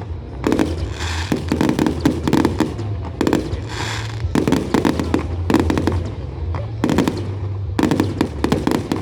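Fireworks display: aerial shells bursting one after another, with clusters of rapid crackling bangs every second or so over a steady low rumble.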